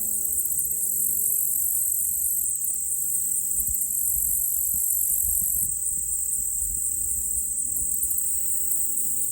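Insect chorus of crickets or katydids: a steady high-pitched trill with a fine pulsing texture, over a faint low rumble.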